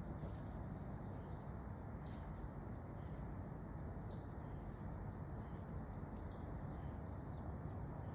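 Woodland ambience: a steady low background hiss with a few short, high chirps from small birds, spaced a second or two apart.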